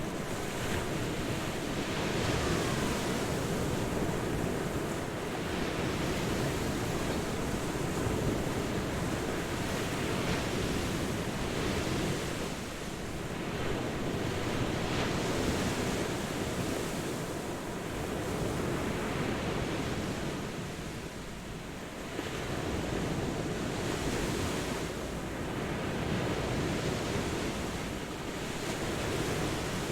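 Ocean surf: a continuous wash of breaking waves that swells and eases every few seconds, with short lulls between sets.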